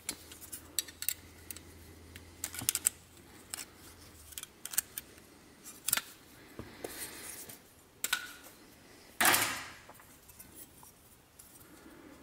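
Hand snips cutting thin copper sheet: a run of sharp, irregular clicks and snips, with one louder, longer cutting stroke about nine seconds in.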